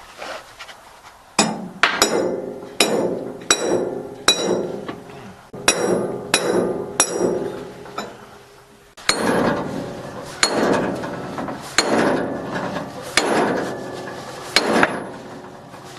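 Hammer blows on steel, tapping a new bearing into place on the drive of a TMR feed mixer. There are about a dozen ringing metallic strikes in irregular groups, with short pauses in between.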